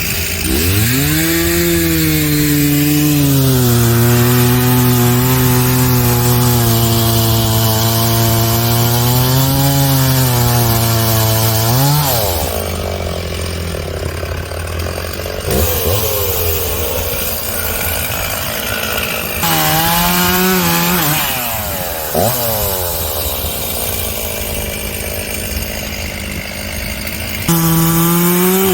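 A chainsaw cutting into a fallen cottonwood trunk, its engine note sagging and recovering under load for about the first twelve seconds. It then drops back to a lower, quieter running speed, is revved in short bursts, and comes back up to full speed near the end.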